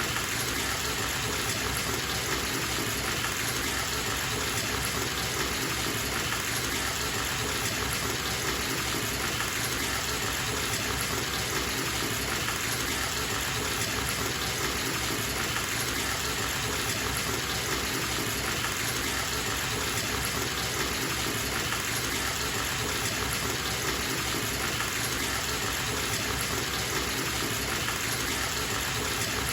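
Water gushing from a bathtub tap into the tub, a steady, even rush with no change.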